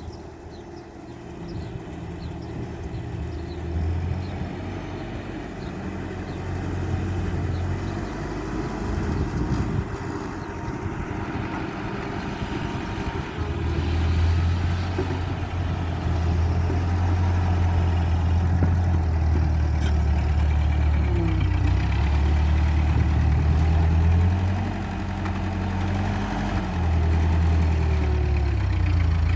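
A 1949 Ford 8N tractor's four-cylinder petrol engine running steadily as a low drone. The drone grows louder about halfway through, then wavers slightly in speed near the end.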